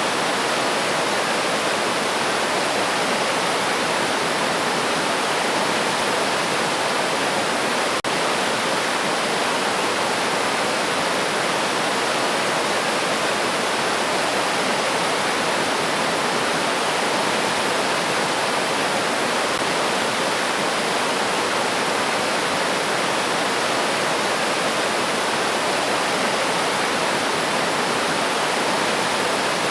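Flowing river water rushing steadily, an even, unbroken sound.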